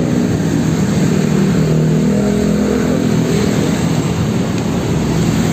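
Street traffic: nearby vehicle engines running, their pitch slowly rising and falling, over a steady road noise.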